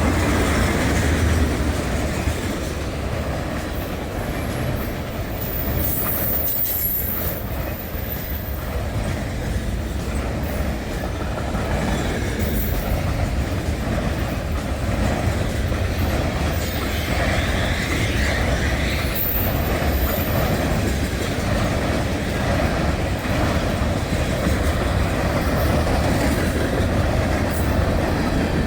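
A train rolling past at close range: a steady rumble of steel wheels on the rails with clickety-clack, and a few brief high wheel squeals.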